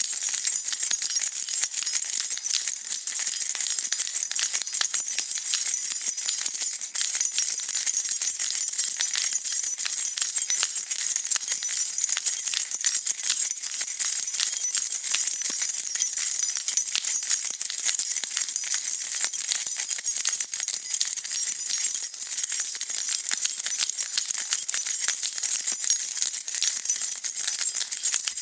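A bunch of keys on a key ring shaken continuously, a steady dense jingle of small metal clinks without pause.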